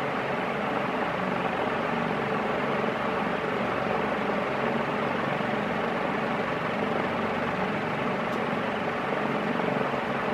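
A 36-inch Gulf Coast (Commander) industrial ceiling fan running at its top speed, speed 1 on its five-speed solid-state control: a steady rush of air from the blades. It moves an insane amount of air.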